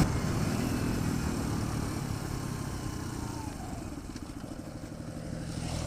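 Sinnis Apache 125 motorcycle's single-cylinder engine running at low speed, growing steadily quieter as the bike slows.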